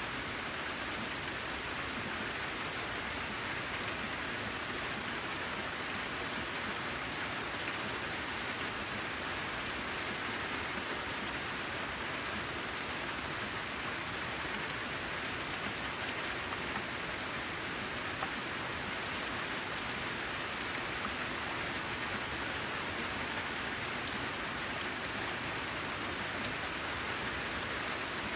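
Steady rain falling on a corrugated metal roof: an even hiss with scattered sharper ticks of single drops.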